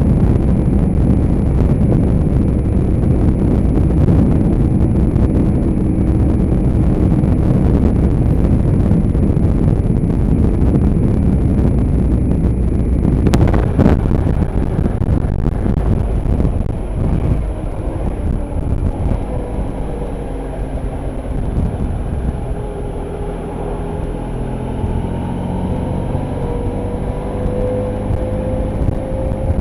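Motorcycle riding at speed with a heavy rush of wind over the engine. About halfway through the wind eases and the engine note comes through, rising in pitch near the end as the bike accelerates.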